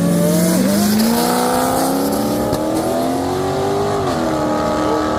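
Drag-racing car engine accelerating hard, its note climbing steadily, with brief dips at gear changes about half a second in and again about four seconds in.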